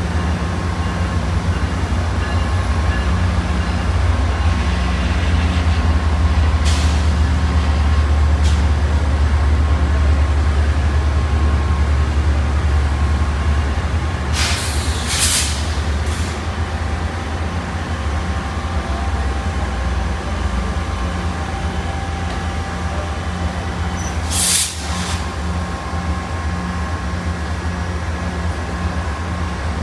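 Metrolink diesel locomotive running with a steady low rumble, loudest in the first half. Short hisses of compressed air from the train's air system come about 7 seconds in, a longer double hiss around 15 seconds, and another near 25 seconds.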